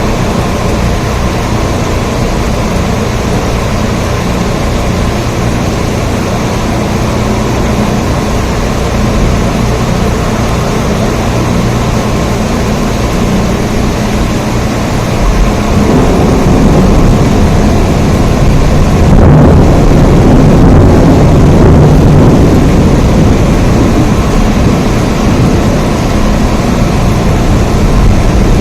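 Steady heavy rain. About halfway through a low rumble of thunder builds, peaks a few seconds later and slowly fades.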